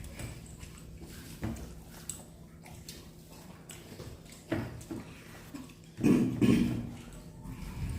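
People eating a rice meal by hand: scattered small clicks and soft mouth and plate sounds, with a short, louder throaty sound about six seconds in.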